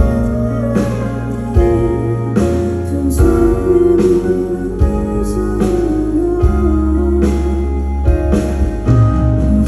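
Live band music: sustained bass notes and drum hits under a melodic line, part of a slow pop song played on stage.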